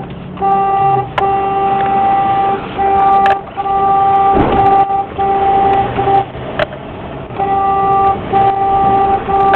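Vehicle horn sounding in a string of long blasts with short breaks, one steady tone, over low vehicle rumble in traffic.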